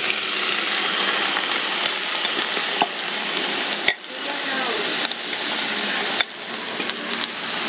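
Onions and peppers sizzling steadily in a hot skillet as sauced chicken is scraped into the pan from a glass bowl with a silicone spatula, with a few light clicks of spatula against bowl.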